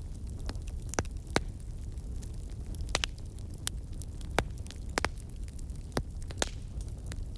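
Fire crackling: a steady low rumble of flames with scattered sharp pops and snaps, about seven of them.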